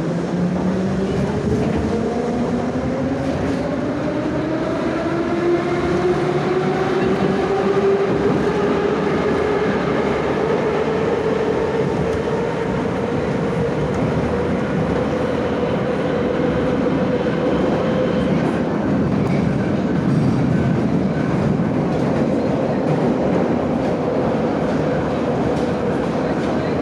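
Moscow Metro 81-717/714 'Nomernoy' subway train pulling away and accelerating. Its traction motor whine climbs in pitch over the first eight seconds or so, then holds steady at running speed over continuous wheel and track rumble.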